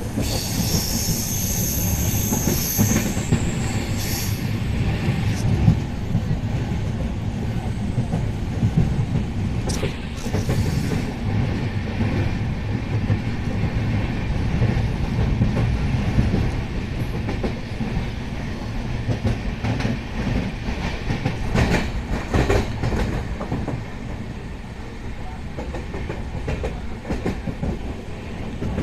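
Sinhagad Express passenger coaches running along the track, heard from on board: a steady low rumble with wheels clacking over the rails and a few sharper clacks about two-thirds of the way through. A high wheel squeal sounds over the first few seconds as the train takes a curve.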